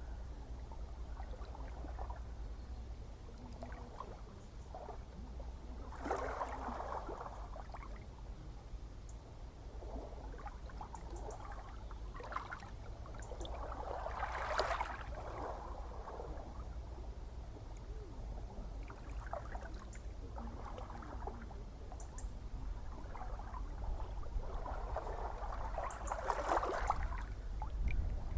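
Gentle ocean waves washing in over a steady low rumble. Three swells build and break, about six, fourteen and twenty-six seconds in, with soft trickling and fizzing of water in between.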